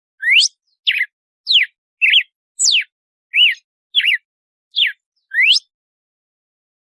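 Red-cowled cardinal (galo-de-campina) singing its 'açoite' song: a quick series of about nine clear whistled notes, a little under two a second, some sliding sharply up and others down. The song stops about a second before the end.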